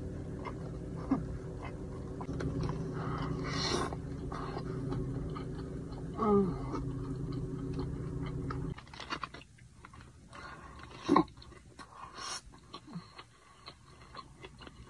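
Close-miked chewing and mouth sounds of a person eating a burrito, with wet clicks and a couple of short hummed sounds. A steady low hum underneath cuts off abruptly about nine seconds in.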